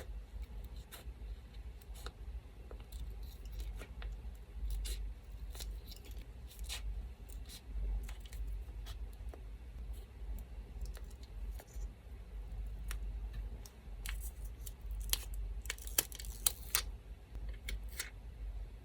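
Scissors snipping paper in short, crisp cuts, with light paper handling between them and a run of louder snips about three quarters of the way through. A low, steady electric fan hum runs underneath.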